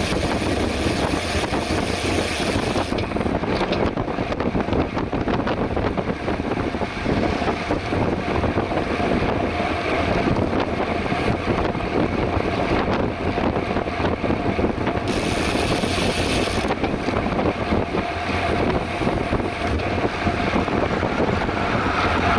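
Steady wind rush over the microphone of a camera on a moving bicycle, mixed with road and tyre noise. The high hiss thins out for a stretch in the middle and then comes back.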